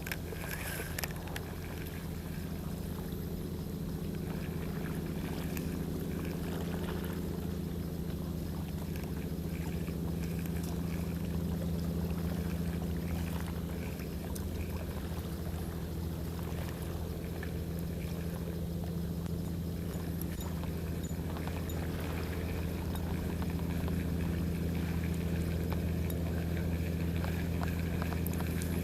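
Low, steady engine hum, unchanging in pitch, with a few faint clicks over it.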